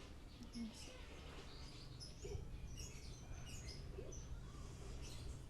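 Faint chirping of small birds, short high chirps scattered through, over a steady low hum.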